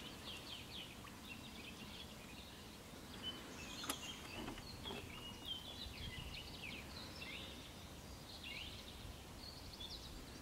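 Several small birds singing, many short high chirps and trills, over a faint low background noise. One sharp click about four seconds in.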